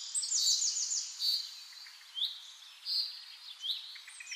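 Birds singing: short rising whistles repeated every second or so, a quick run of high chirps about half a second in, and a fast rattling trill near the end.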